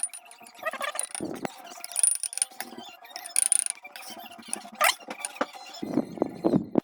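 Kitchen clatter: utensils clicking, knocking and scraping against cookware in irregular bursts, some with a high metallic ring.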